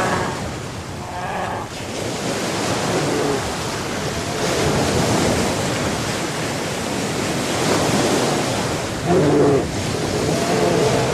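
Sea waves and wind in a steady rush of noise, with wind buffeting the microphone. A short pitched call or voice sounds about nine seconds in.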